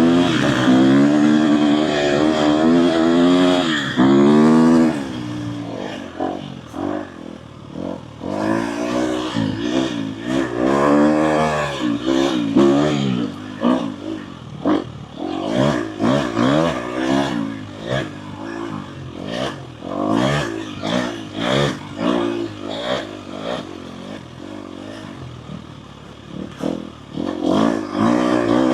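Dirt bike engine revving up and down as the bike is ridden over a rough trail, pitch rising and falling with the throttle, with frequent knocks and clatter from the bike over the ground. The revving is hardest in the first few seconds.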